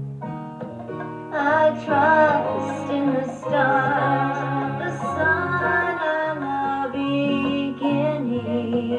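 A slow, relaxing song with steady instrumental backing. A singing voice comes in about a second in, holding and gliding through drawn-out notes.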